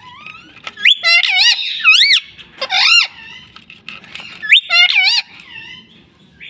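Indian ringneck parakeet calling: a series of loud, high-pitched screeches and whistles with quick up-and-down pitch swoops, in two bursts, the second about halfway through.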